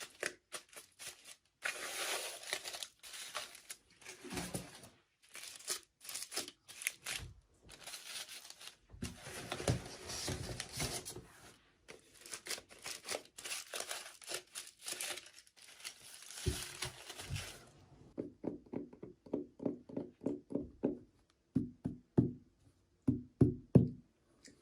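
Toy packaging being opened by hand: plastic and paper crinkling and tearing. It changes about two-thirds of the way through to a quick run of light clicks and knocks, as of small plastic parts being handled.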